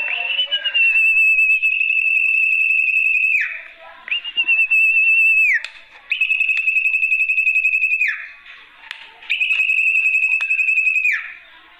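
Call of a sertu (zepo) bird played as a lure: four long, steady, high whistled notes, each a second and a half to three seconds long, with a slight tremble. Each note ends in a quick downward slide, with short gaps between them.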